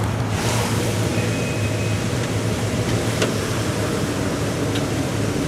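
A 1967 Cadillac Eldorado's 429 V8 idling steadily through its true dual exhaust, with a faint click about three seconds in.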